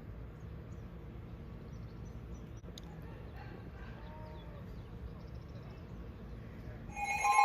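Low steady wind rumble with faint bird chirps. Near the end, a loud two-tone alert from a NOAA Weather Radio cuts in suddenly, announcing a new tornado warning.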